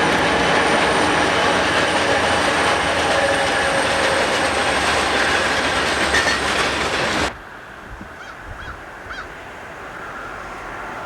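Buffalo & Pittsburgh northbound train rolling past close by, loud wheel-on-rail noise with a few steady ringing tones. It cuts off abruptly about seven seconds in, leaving a much quieter stretch with a few short chirps and a sound slowly building toward the end.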